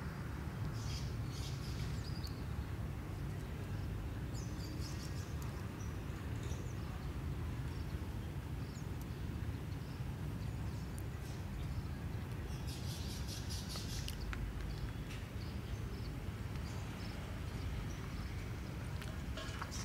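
Outdoor ambience: a steady low rumble with short high bird chirps now and then, a quick cluster of them about two-thirds of the way through.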